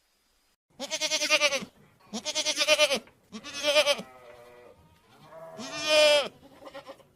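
Bleating livestock: four loud, quavering calls of about a second each, with a fainter, lower call between the third and the fourth.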